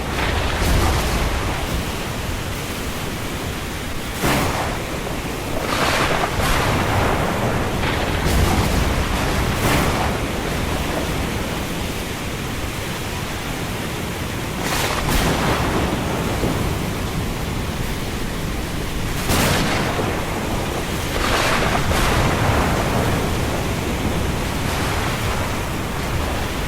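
Thunderstorm ambience: a steady rush of wind and rain, broken by about ten sudden surges that swell and fade within a second or two.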